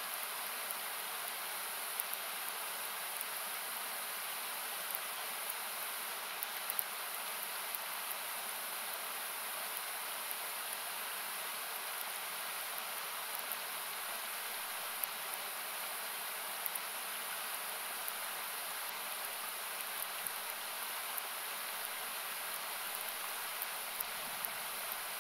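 Steady rush of river water, a noise-like hiss, with scattered small crackling pops from a wood campfire.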